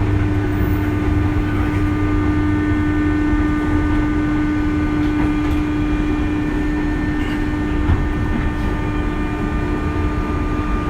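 Inside a 201 series electric train car: steady running-gear and equipment hum over a low rumble, with a held tone that fades out about eight seconds in.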